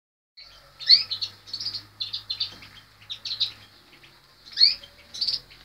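Small birds chirping in quick runs of short, high notes, again and again, loudest about a second in and again near the end.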